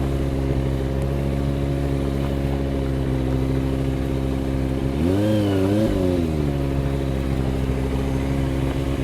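Motorcycle engine running at a steady low speed, with a brief rise and fall in pitch about five seconds in as the throttle is blipped.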